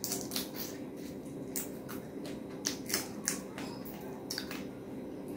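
Close-miked eating sounds: wet chewing and lip smacks, an irregular run of sharp clicks, as a mouthful of rice and curry is eaten by hand.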